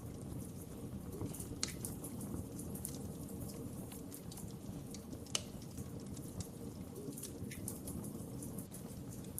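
Wood fire in a fireplace crackling over a steady low rumble of flame, with scattered sharp pops, the loudest about a second and a half in and again about five seconds in.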